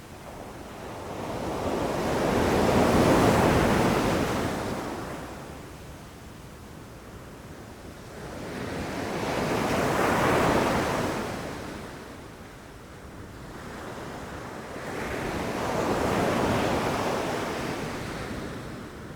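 Ocean waves rushing in and breaking on the shore, three swells of surf that build and fade about every six to seven seconds.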